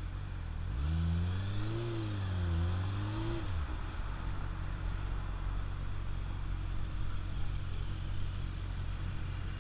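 Motorcycle engine revving up and easing back down over about three seconds, then running on as a steady low hum.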